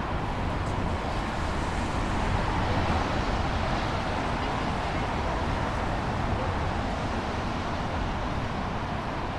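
Steady city street traffic noise, swelling slightly a couple of seconds in.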